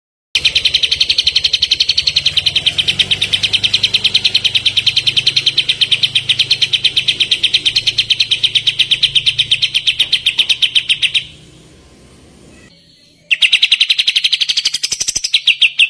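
Kapas tembak songbird singing one long, fast trill of evenly repeated notes, breaking off for about two seconds and starting again, rising a little in pitch near the end: the rapid-fire "tembakan" song used as masteran for training caged songbirds.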